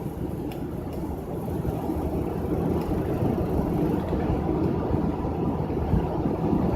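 Steady road and engine noise heard from inside a moving vehicle's cabin: a low, even rumble of tyres and engine at highway speed.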